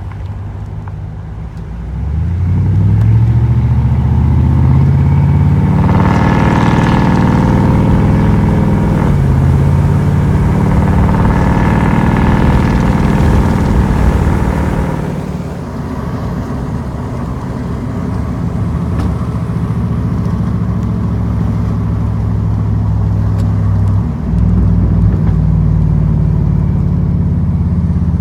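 A 2006 Chevy Silverado 2500HD's 6.0-litre V8, run through 3-inch true dual exhaust with no mufflers (factory catalytic converters kept), heard through the open driver's window while accelerating at about quarter throttle. The exhaust note rises, drops at a gear change, and rises again. About halfway through it eases off into a steady cruising drone.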